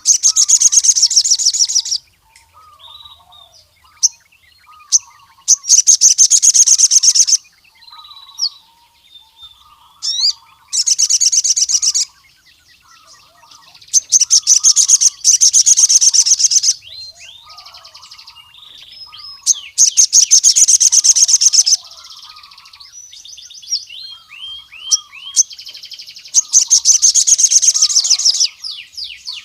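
Male ruby-cheeked sunbird (sogon) singing: loud, high, rapid trills of about two seconds, repeated six times, every four to five seconds. Softer chirps and twitters fill the gaps between them.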